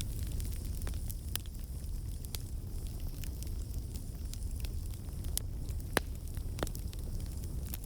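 Campfire burning with a low steady rumble and irregular sharp crackles and pops of the wood, one louder pop about six seconds in.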